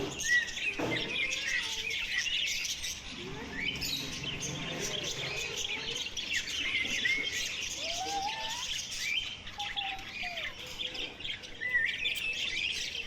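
A flock of small caged birds chirping and twittering all at once, a dense overlapping chatter of short high calls, with a few lower sliding calls about eight to ten seconds in.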